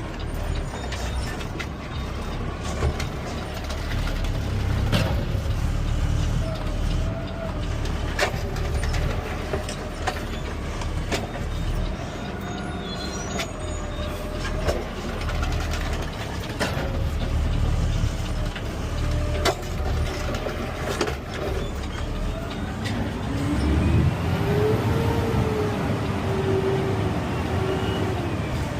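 Peterbilt 520 CNG automated side-loader garbage truck running, heard from inside the cab, with a steady low rumble and scattered knocks and clunks. Near the end a wavering whine rises over the engine.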